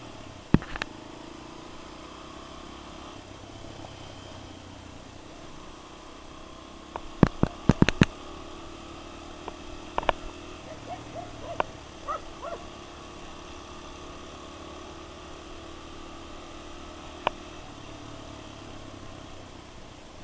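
Suzuki DR single-cylinder enduro motorcycle engine running steadily at low speed on a rough dirt road. Sharp knocks and rattles break in here and there, with a cluster of them about seven to eight seconds in.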